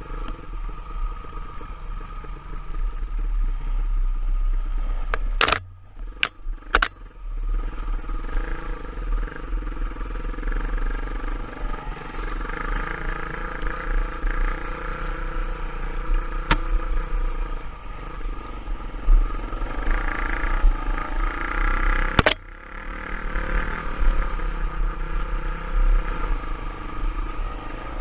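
Dirt bike engine running steadily while riding a trail, with a low rumble underneath. A few sharp knocks come about five to seven seconds in and again near the end, each followed by a brief dip in the sound.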